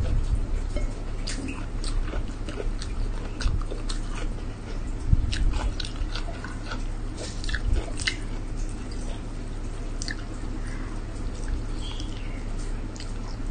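Close-up eating sounds of a person chewing rice and sambal-coated food eaten by hand: wet chewing, lip smacks and short mouth clicks at an irregular pace, over a steady low hum.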